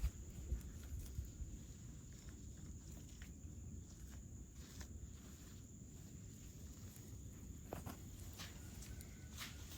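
Faint scattered footsteps and rustling over a low background rumble, with a steady high-pitched whine.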